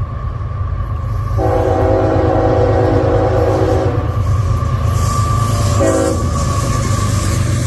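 Diesel freight locomotive sounding its multi-chime air horn: one long blast of about two and a half seconds, then a short blast about two seconds later, over the steady rumble of the engine and train.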